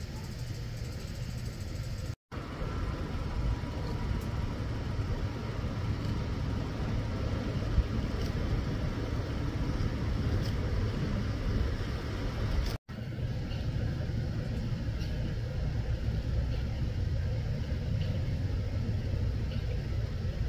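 A car engine runs with a steady low rumble. The sound drops out completely for an instant twice, about two seconds in and near thirteen seconds in.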